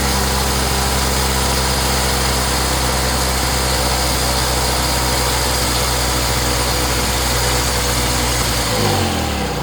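Gasoline inverter generator's small engine running steadily, now starting after its no-start fault was fixed. It is shut off near the end, and its pitch falls as it winds down.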